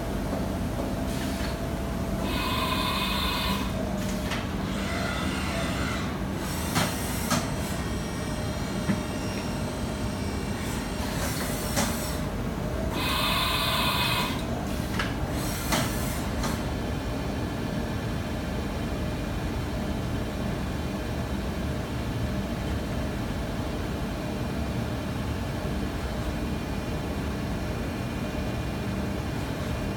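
Haas VM3 vertical machining centre running: a steady machine hum, with two short higher-pitched whirring bursts and a few sharp clicks in the first half, then an even hum.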